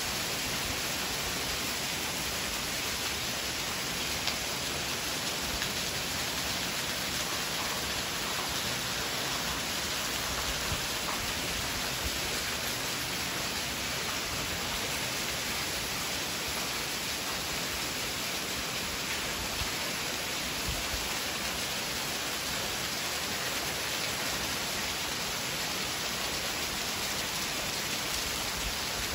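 Heavy rain falling steadily, a constant even hiss with a few louder drop ticks now and then.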